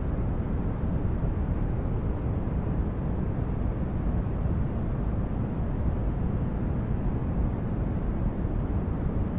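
Sci-fi spaceship interior ambience: a steady, deep rumbling noise like brown noise, with no separate events.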